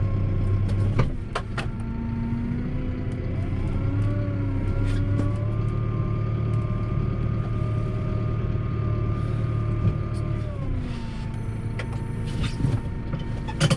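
A vehicle engine running steadily, its pitch shifting with engine speed: a drop about a second in and another near the end. A few sharp knocks sound over it.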